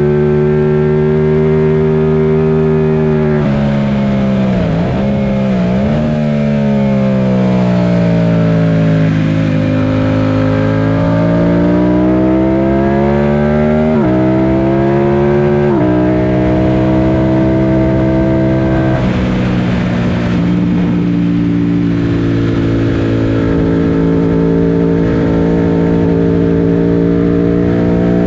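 Yamaha FZ-07's parallel-twin engine, heard from on board, running hard through the gears at high revs. The pitch drops sharply a few seconds in, with quick throttle blips as it downshifts, then climbs steadily, and steps up and down again at gear changes later on. A steady rush of wind runs underneath.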